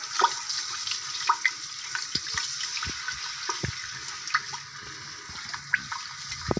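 Ginger-garlic paste sizzling in hot ghee in a pressure cooker pot, being fried toward light golden, with a steady hiss. A silicone spatula stirring it makes scattered taps and scrapes against the pot.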